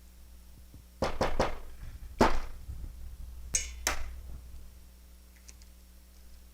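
Eggs being cracked and handled with a cup in the kitchen: a quick run of knocks about a second in, one harder knock a second later, then two sharp clinks.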